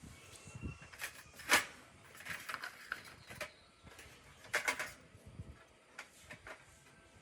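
Scattered clicks and knocks of parts and tools being handled at a workbench, the sharpest about a second and a half in and a quick run of clicks near the five-second mark.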